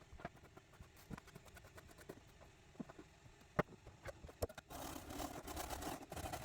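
Scattered light clicks and knocks of things being handled, then from about five seconds in a continuous rustling scrape.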